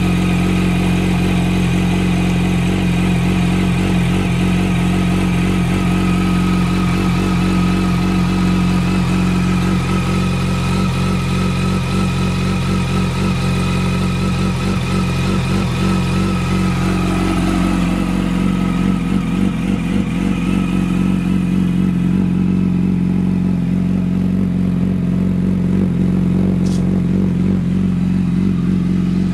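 Yamaha R1's inline-four engine idling steadily through a Two Brothers aftermarket exhaust.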